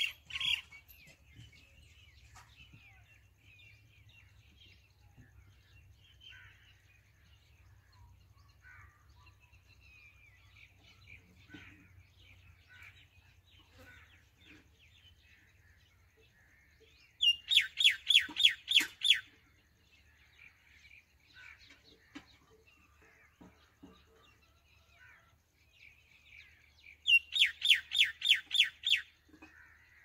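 Birds calling: faint, scattered chirps throughout, and twice a loud run of about ten quick, sharp notes lasting about two seconds each, one past halfway and one near the end.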